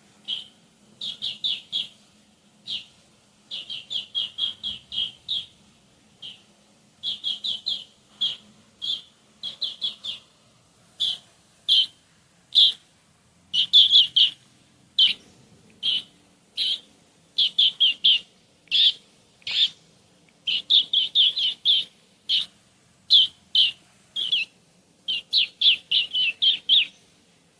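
A man imitating a green bee-eater's call with his mouth: short, high trilled notes, some single and many in quick runs of several, repeated throughout. The mimicry is close enough that the Merlin bird app identifies it as a green bee-eater.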